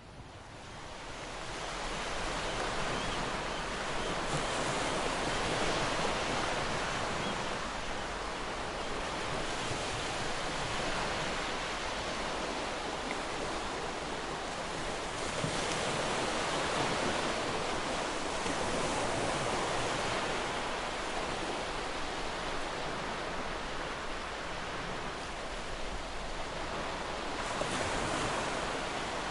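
Ocean surf breaking on a beach: a continuous rushing wash that builds up from a lull at the start, then swells three times, about every eleven seconds.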